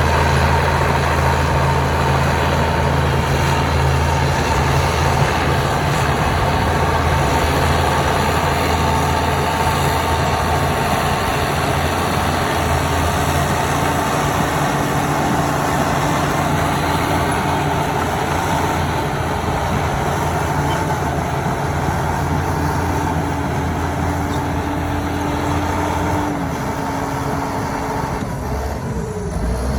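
Heavy diesel engine of earthmoving machinery running steadily under a constant high whine. The low engine note drops away about 26 seconds in.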